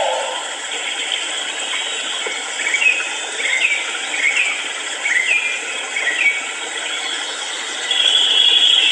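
Bird calls: a series of short chirping notes, then a longer held note near the end, over a steady insect-like hum.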